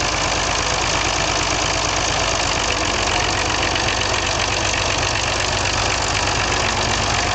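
Perkins P6 six-cylinder diesel engine of a Fordson E27N tractor running steadily, its beat even throughout.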